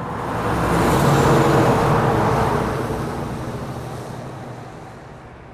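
A truck driving past: its engine and tyre noise swell over the first second or so, then fade away slowly as it moves off.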